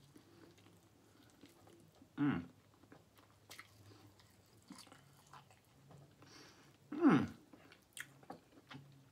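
Close-up chewing and mouth clicks of a person eating meat off a bourbon barbecue turkey leg. Twice, about two seconds in and again about seven seconds in, the eater makes a short vocal sound that falls in pitch; the second is the loudest.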